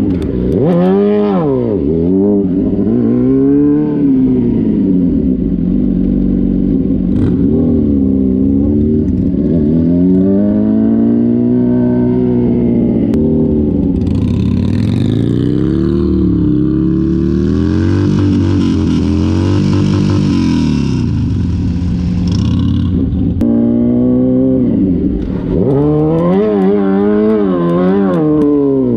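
Motorcycle engine revving up and down over and over as it is ridden hard, throttle blipped repeatedly. Around the middle a loud hiss rises over the engine for a few seconds.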